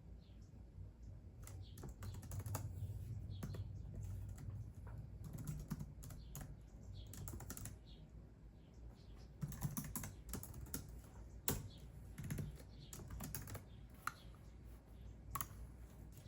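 Typing on a computer keyboard: quick runs of keystrokes broken by short pauses, thinning to a few single key presses near the end.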